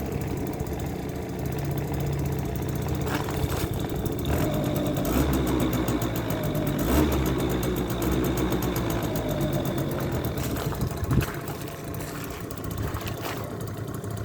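Yamaha Jog Aprio scooter's two-stroke single-cylinder engine running after a cold start, speeding up somewhat through the middle stretch before settling back. A single sharp knock comes about eleven seconds in.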